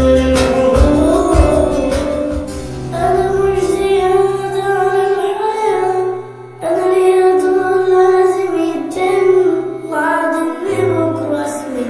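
A song: a high-pitched singing voice over music with held bass notes, dropping out briefly just after the middle.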